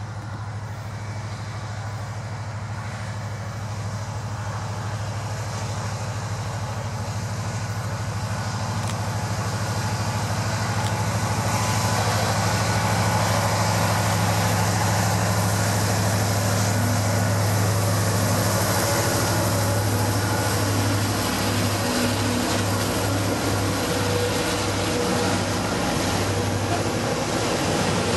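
BNSF diesel locomotives hauling a freight train, their engine drone growing louder as they approach and pass. In the second half the freight cars roll by with a rhythmic beat of wheels on the rails.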